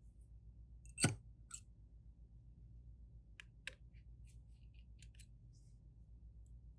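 Sharp clicks and light taps of small repair tools on a phone: one loud click about a second in, then a scatter of fainter ticks, over a steady low hum.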